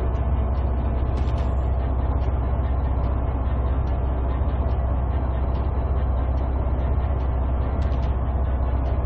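Steady, low engine rumble of a heavy vehicle, running without change.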